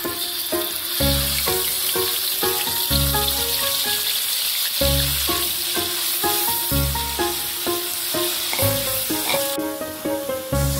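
Ground chili spice paste sizzling in hot oil in a wok as it is poured in and stirred with a spatula; the sizzle drops off near the end. Background music with a regular bass beat plays underneath.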